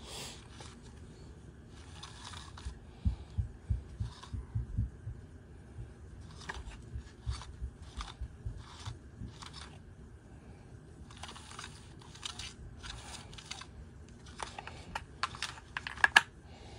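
Hands working on a string trimmer's recoil starter and its rope: scattered clicks, rustles and scrapes of small parts being handled. About three to five seconds in there is a run of soft low thuds.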